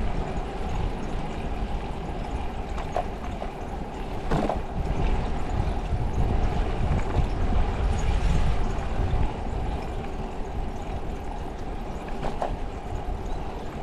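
Wind rumbling on the microphone and road noise while riding a bicycle, with a few short clicks or knocks.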